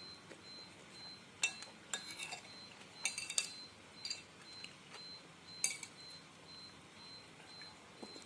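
Spoon and fork clinking against a bowl of noodles and meatballs while eating: a few sharp, separate clinks, with a quick run of them about three seconds in.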